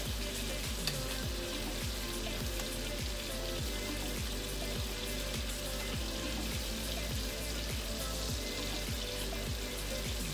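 Pork chops frying in their marinade juices in a frying pan, a steady sizzle, with one light tap about a second in.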